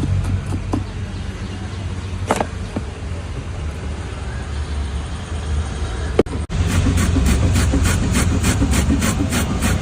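Steady low traffic rumble with a few scattered clicks, then, after a brief break about six seconds in, quick regular strikes of a utensil, about three to four a second, as the bhel is mixed or chopped.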